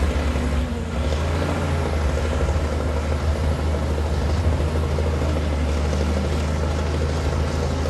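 Komatsu D60P bulldozer's diesel engine running steadily as the dozer works mud and soil, a deep, even drone.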